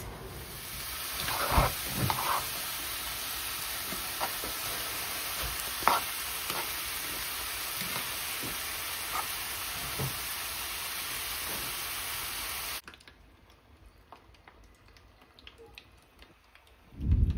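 Chicken and peppers sizzling as they fry in a pan of bubbling honey, with occasional clicks and scrapes of a utensil stirring them; the glaze is being cooked down dark. The sizzling cuts off suddenly about thirteen seconds in, leaving a quiet room, and a brief louder noise comes near the end.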